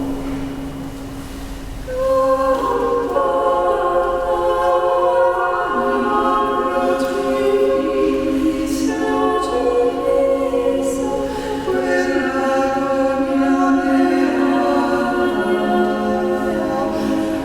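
Many voices singing a slow hymn together, with long held notes that change in steps; the singing grows fuller and louder about two seconds in.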